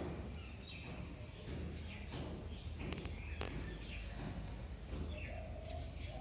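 Small birds chirping on and off in the background, over a low steady outdoor rumble.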